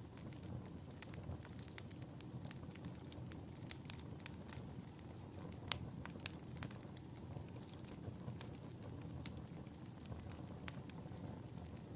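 Wood fire in a fireplace crackling: a steady low rumble of burning with scattered sharp pops and snaps, the loudest pop a little under six seconds in.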